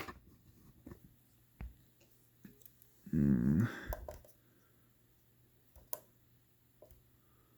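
Sparse small clicks and taps from hand work at a soldering bench, with a short hummed voice sound about three seconds in and a faint steady low electrical hum underneath.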